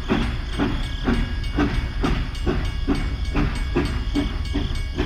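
Toy steam locomotive's chugging steam-train sound, regular chuffs about three a second over a steady low hum.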